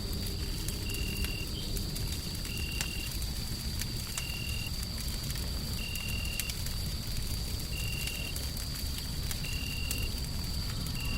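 Wood fire crackling with scattered sharp pops over a deep, steady rumble of white noise. A short, high chirp repeats about every one and a half seconds over a steady high, thin tone.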